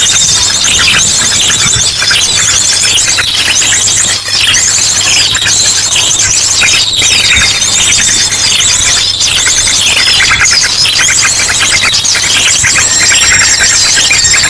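Bird-lure recording: a dense, loud chorus of small birds' chirps and trills mixed with ashy drongo calls, running without a break over a steady low hum.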